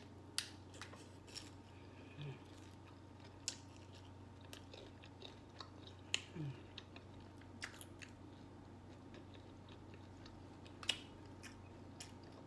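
A person chewing a mouthful of steak taco in a crisp ranch taco shell, with sharp crunches at irregular moments.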